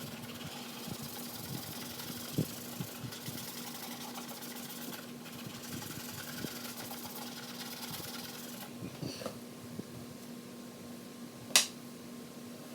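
Fast, even scrubbing against the plastic light cover, stopping about three-quarters of the way through over a steady low hum. A single sharp knock near the end.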